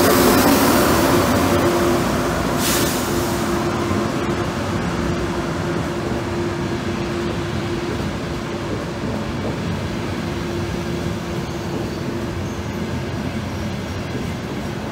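Trenitalia Frecciarossa ETR 500 electric high-speed train rolling slowly past along the platform: a steady hum from the train with rolling rumble, and a short hiss about three seconds in. It grows slightly quieter as the power car moves on and the coaches pass.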